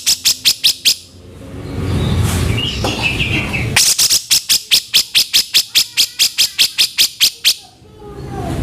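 Cucak jenggot (grey-cheeked bulbul) giving its harsh 'kasaran' call in two rapid runs of sharp, rattling notes, about five or six a second. Between the runs there are about three seconds of low rumbling background and a brief softer chirp.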